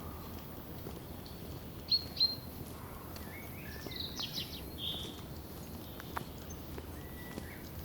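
Forest songbirds calling over a steady background hiss: two sharp high chirps about two seconds in, a quick burst of several calls around the middle, and a thin held whistle near the end.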